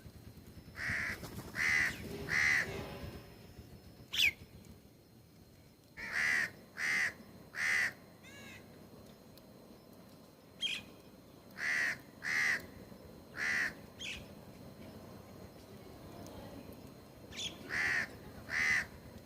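A bird giving harsh caw calls in sets of three, four sets in all, with a quick high chirp from a smaller bird about four seconds in.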